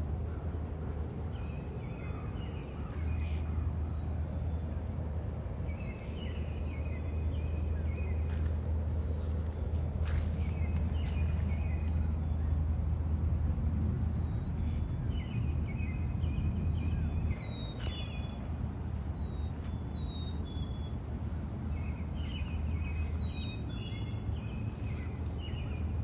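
A small bird singing short phrases that repeat every few seconds, over a steady low rumble.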